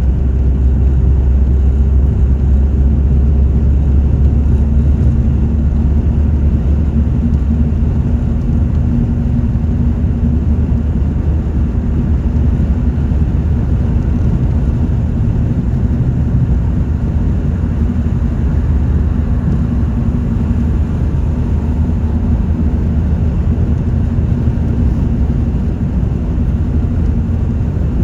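Car driving: a steady low rumble of engine and road noise, with a faint steady hum above it.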